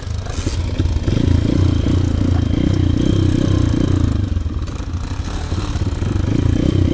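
Single-cylinder four-stroke engine of an Avantis 150 Classic pit bike catching about a second in, then running with a rapid, repeated rise and fall in pitch.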